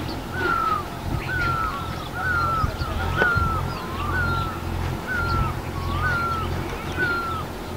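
A bird calling over and over: a short whistled note that falls in pitch, repeated about once a second, sometimes with a lower second note, over a steady low hum.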